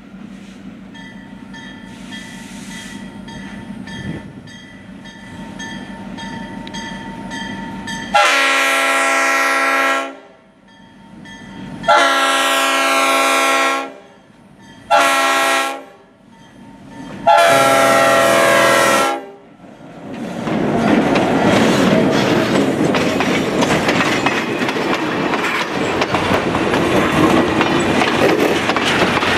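EMD GP-series diesel locomotive approaching, its engine growing louder, then its air horn sounding the grade-crossing signal: long, long, short, long. The locomotive and its passenger coaches then roll past close by, wheels clattering over the rail joints.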